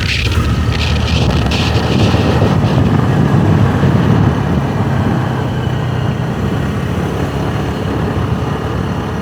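Motorbike running while riding along a road, its engine and road noise mixed with wind on the microphone.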